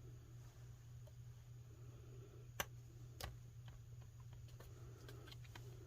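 Near silence over a steady low hum, broken by two light, sharp clicks about two and a half and three seconds in and a few fainter ticks later: small craft pieces being handled and set down on a tabletop.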